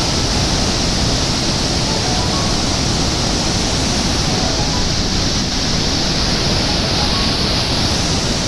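Loud, steady rush of a fast mountain river, with a few faint piano notes over it.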